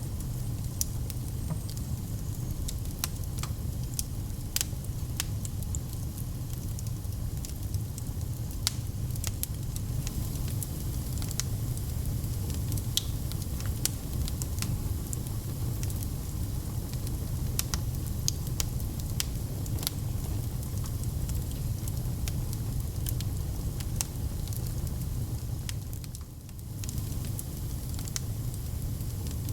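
Wood fire burning in a fireplace, crackling: frequent sharp pops over a steady low rumble of the flames, with a brief lull near the end.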